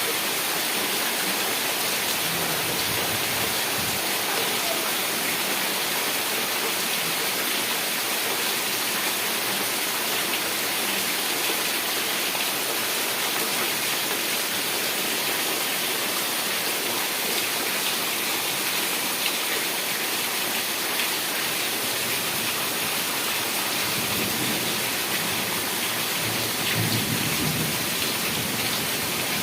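Heavy rain falling steadily, a dense even hiss of drops. Low rumbles come in over the last few seconds, plausibly distant thunder.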